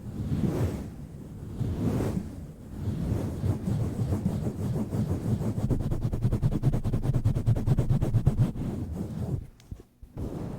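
Aggressive mic-cover swirling and pumping right on a microphone: two slow swells of rubbing noise, then fast rhythmic rubbing from about three seconds in. It breaks off briefly near the end before starting again.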